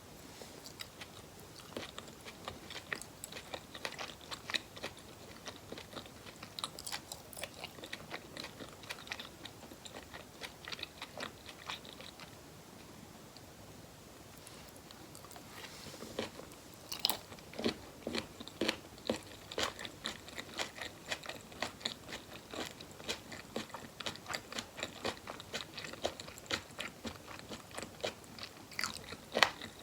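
Close-miked eating sounds: chewing and crunching of boneless chicken feet, with many short wet clicks and smacks. It goes quieter for a few seconds in the middle, then picks up again with louder, denser chewing.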